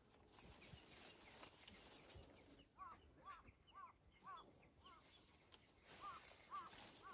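Faint bird calls: a quick run of five short, arched notes about three seconds in, then three more near the end, over near silence.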